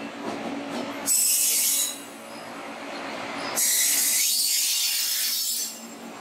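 Indian Railways WAP-7 electric locomotive and its coaches rolling slowly past, arriving at the platform. A steady rumble runs under two bursts of high-pitched screeching from the wheels, a short one about a second in and a longer one of about two seconds from the middle.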